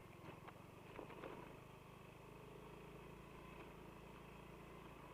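Near silence: a faint, fast-pulsing low rumble, with a few soft clicks in the first second or so.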